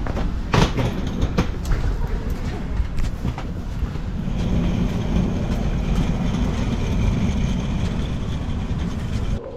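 Passenger train running on the rails: a steady low rumble with a few sharp clicks of the wheels over rail joints. About four seconds in, a steady high whine joins the rumble. The sound cuts off abruptly near the end.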